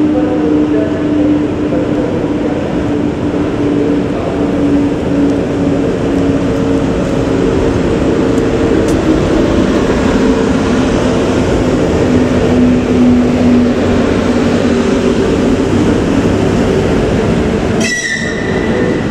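Train running at the station, loud and steady, with a low hum that slowly falls in pitch. Near the end a sudden shrill high tone cuts in and holds.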